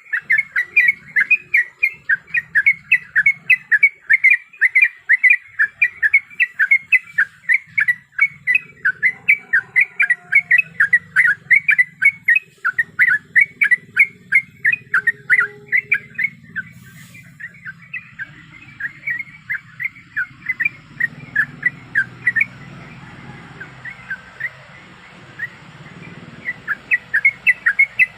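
Yellow-vented bulbul (trucuk) chattering in a long run of quick, sharp notes, about three a second. The run goes fainter about two-thirds of the way through and comes back loud near the end.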